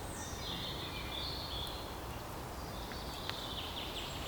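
Birds chirping, with short high falling notes, over steady outdoor background noise.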